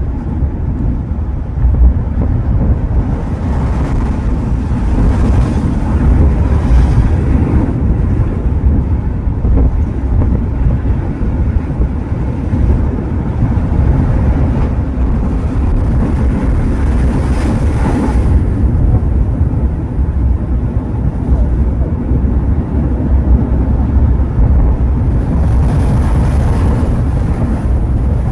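Sea surf washing onto the shore under a heavy rumble of wind on the microphone, with a few louder swells as waves break.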